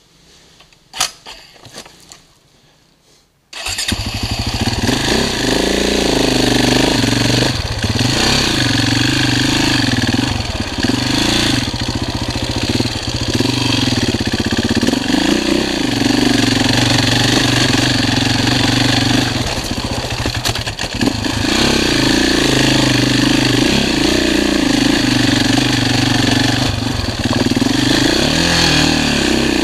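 Enduro dirt bike engine heard close up from the bike itself. After a few faint knocks, it comes in suddenly about three and a half seconds in, then runs loud as the bike rides a forest trail, its pitch rising and falling with the throttle.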